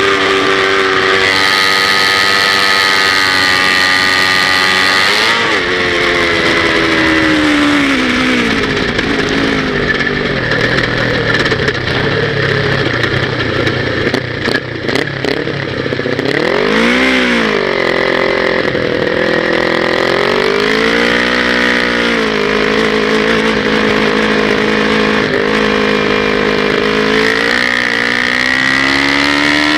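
Kawasaki Ninja 250's parallel-twin engine heard on board at race pace: the revs hold high at first, then fall over several seconds. A quick rise and fall comes about halfway through, followed by a slower hump, and the revs climb steadily again near the end as the bike accelerates.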